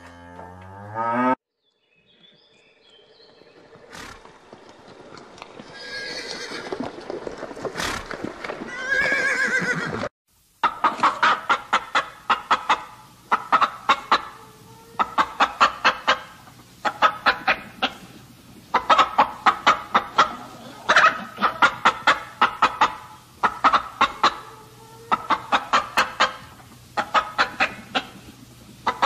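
A run of animal sounds with abrupt cuts between them: a short low call at the start, a longer call that swells over several seconds, then clusters of rapid pulses repeating about every two seconds.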